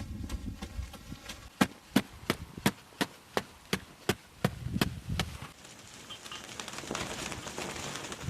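Hand-tool strikes: a run of sharp knocks, about three a second, for a few seconds in the middle, followed by a faint steady hiss.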